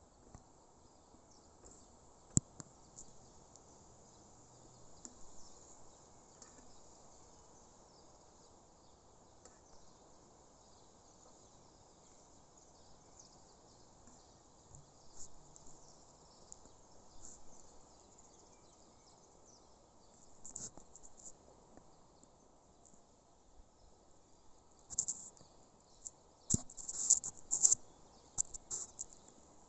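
Insects chirping steadily in a high, thin band over a faint background hiss, with a few louder bursts of chirping near the end and a single sharp click a couple of seconds in.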